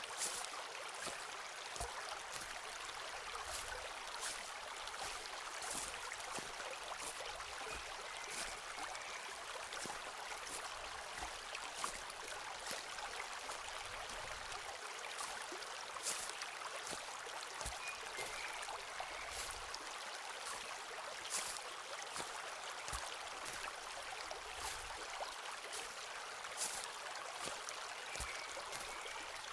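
Footsteps walking on a forest floor, a sharp crunch every second or two, over the steady rush of a stream.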